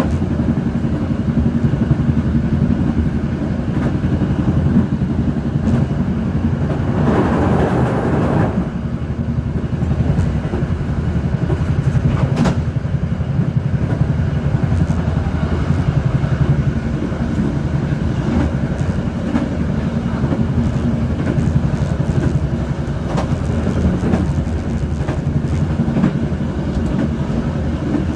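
Motorcycle engine running steadily at road speed with wind and road noise, heard from the pillion seat. A louder rush of noise comes about seven seconds in, and a sharp click about twelve seconds in.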